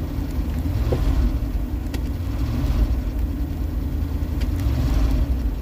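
1977 Jeep Cherokee Chief engine running just after a cold start in freezing weather, with the driver's foot working the accelerator. There is a steady low rumble that swells slightly a few times.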